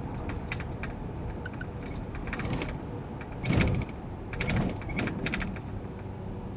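Steady road and engine noise inside a moving GAZ Sobol van, broken by irregular clatters and knocks, with the heaviest thump about three and a half seconds in.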